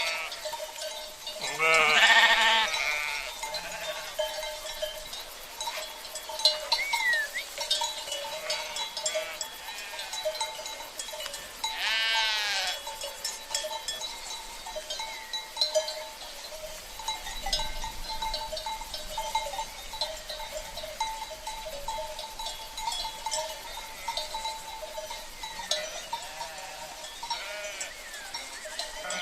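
A flock of sheep with bells: two loud bleats, about two seconds in and again around twelve seconds, over the steady ringing and tinkling of their cencerro bells.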